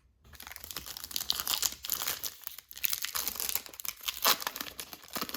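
Foil wrapper of a baseball trading-card pack crinkling and tearing as it is handled and ripped open: a dense, irregular run of crackles with a brief lull about halfway through.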